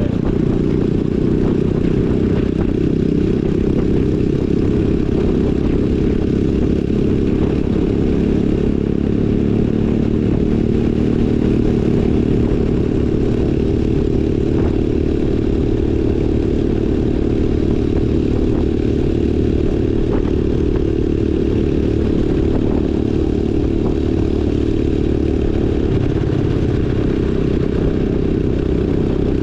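Small single-cylinder four-stroke off-road engine running steadily while riding, its pitch drifting a little with the throttle, with some rattle from the machine.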